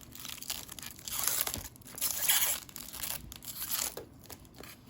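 Protective plastic wrap being peeled and crinkled off a figure's base, in rustling, tearing bursts that are loudest about one and two seconds in and quieter near the end.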